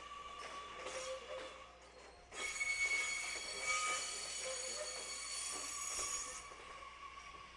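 Train wheels squealing on depot track: a sudden high, many-toned squeal starting about two seconds in and cutting off about four seconds later, after some faint clicking.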